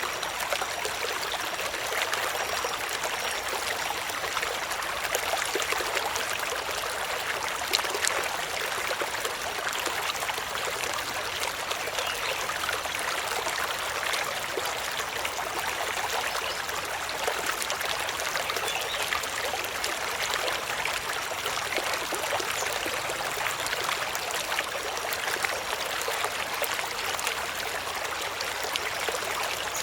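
Steady sound of water, an even hiss dotted with many tiny crackles and drips, holding unchanged throughout.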